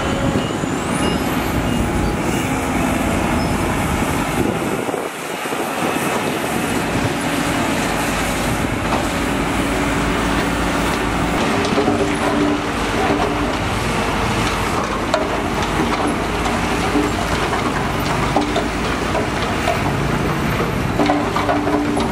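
Heavy diesel construction machinery running loudly and steadily, an engine hum under a dense mechanical roar, with a brief dip in the low rumble about five seconds in.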